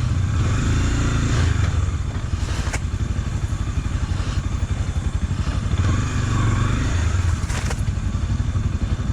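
Honda XRE300's single-cylinder engine running steadily as the motorcycle is ridden. The throttle rises and eases slightly, with two sharp knocks, one about a third of the way in and one near the end.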